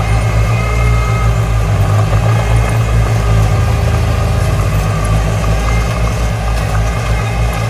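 Diesel engine of a Komatsu D20 bulldozer running steadily, low and loud, with small rises and falls in level.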